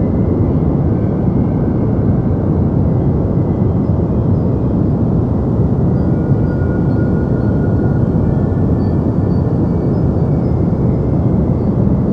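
Deep white noise: a steady, even rushing hiss weighted toward the low end, with faint thin high tones drifting in and out.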